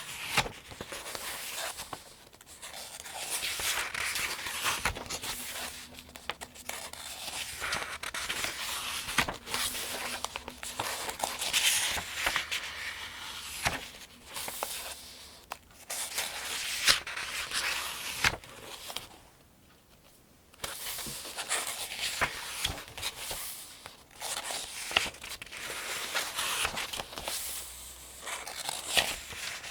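Paper pages of a softcover almanac being turned one after another, each turn a rustle and a crisp flick of newsprint, with a brief pause about two-thirds of the way through.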